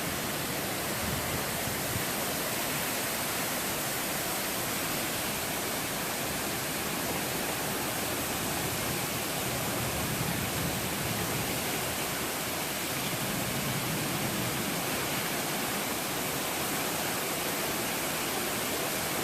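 Heavy thunderstorm rain pouring steadily, an even hiss with no thunder claps.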